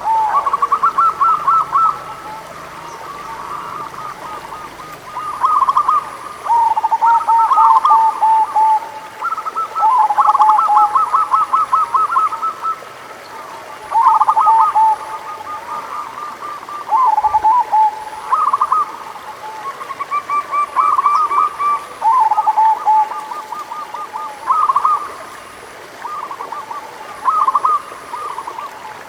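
Zebra doves (perkutut) cooing: phrases of quick, high staccato notes repeated every second or two, at two different pitches that often overlap, as from more than one bird.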